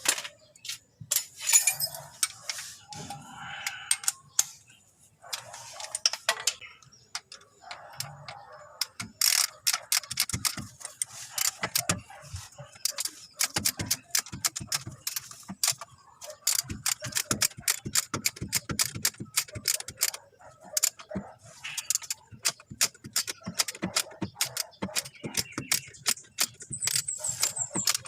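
Rapid metallic clicking and clinking from hand work with tools and small metal parts, sparse at first and then several clicks a second from about a third of the way in.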